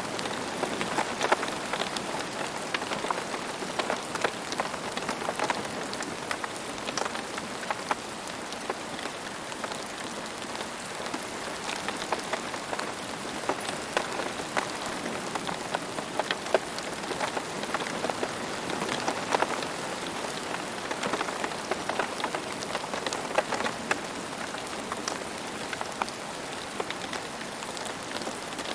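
Steady rain falling, individual raindrops pattering and ticking on a surface over an even hiss.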